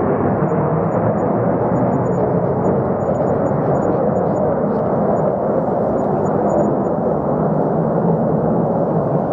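Fighter jet engine noise: a steady, loud rushing rumble with its weight in the low and middle range, holding even without rising or falling.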